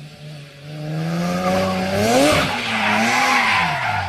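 A car engine revving, its pitch climbing over about two seconds. Then a hissing tyre skid sets in as the engine note drops away.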